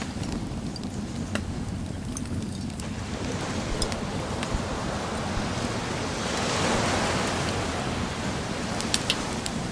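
Ocean surf running steadily, with a wave swelling and washing in about two-thirds of the way through. Wood crackling in a bonfire, with short sharp pops scattered throughout and a few close together near the end.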